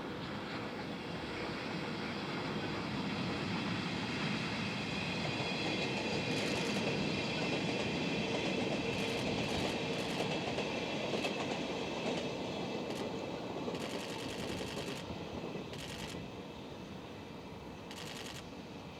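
Freight train of an EH500 electric locomotive and empty Chiki flat wagons rolling past, wheels clicking over rail joints. It grows louder to a peak about halfway through, then fades as it moves away.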